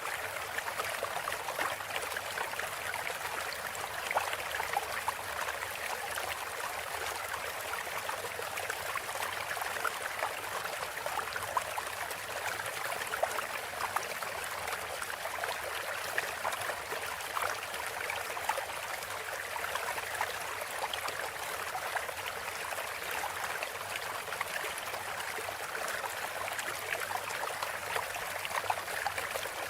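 Steady flowing water, a stream-like running water sound with fine trickling flecks and no pauses.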